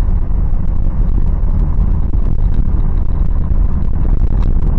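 Steady low rumble of a Toyota 4Runner with a 4.0-litre V6 driving, engine and road noise heard from inside the cabin.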